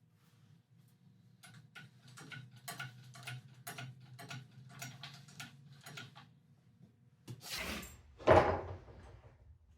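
Light clicks and knocks of metal and cardboard parts being handled while a table saw is put together, about two a second, then a louder knock and scrape near the end.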